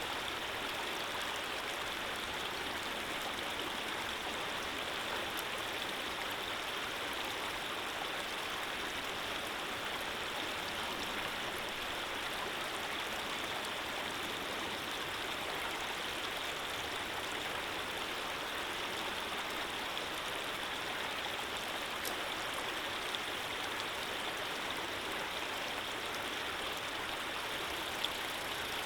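Steady running water, a stream's continuous rushing flow with no change in level.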